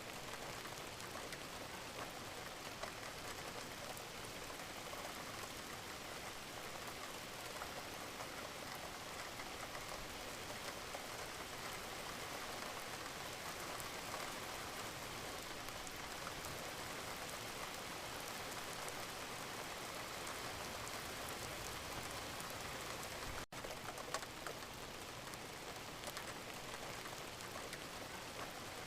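Wood fire crackling steadily in a fireplace, with many small pops and a hissing bed of noise. The sound breaks off briefly about 23 seconds in.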